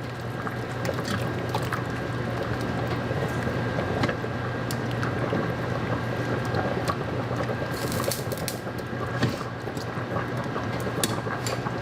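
A spoon stirring a creamy sauce in a pot, with scattered clicks of the spoon against the pot over a steady low hum.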